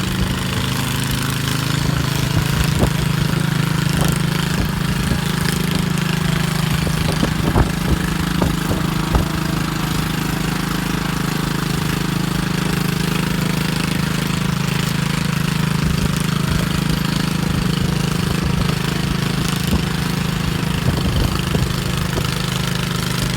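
Single-cylinder or twin engine of a modified garden pulling tractor running steadily at one even speed, with a few short knocks.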